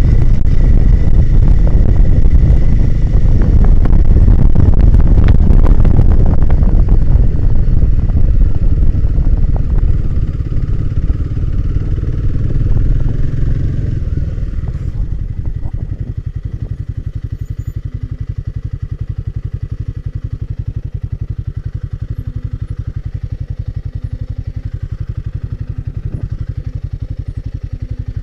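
Royal Enfield Himalayan 450's single-cylinder engine running under load with knocks and rattles for the first several seconds, then easing off and settling to a steady, even idle from about halfway through.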